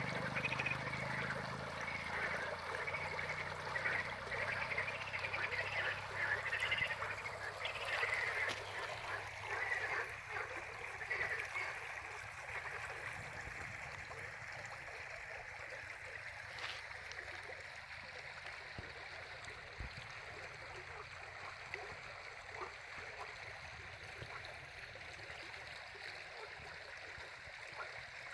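Running water hissing steadily, with a dense chorus of animal calls over it for about the first twelve seconds that then fades away.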